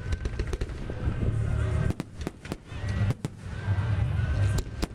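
Fireworks bursting: a series of sharp bangs and crackles, several in quick succession, over music with a heavy bass.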